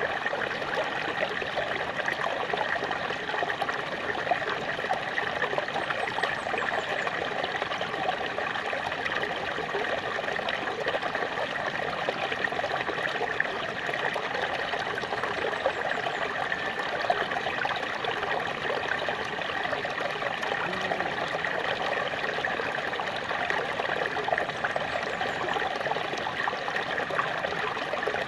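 Small waterfall splashing and trickling steadily, an even rush of water with no breaks.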